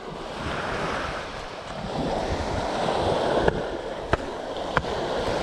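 Small waves washing on the beach, with wind on the microphone; three short sharp clicks or knocks come in the second half.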